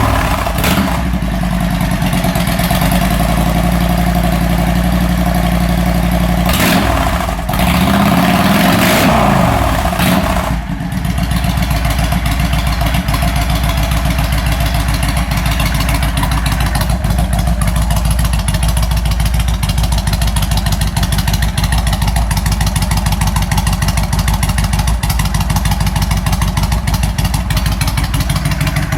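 A 2006 Honda VTX 1300R's V-twin running cold through Hard Krome exhaust pipes. For the first ten seconds or so the revs are raised and rise and fall. After that it settles into a steady, lumpy idle: the engine is not warm yet and not running quite right.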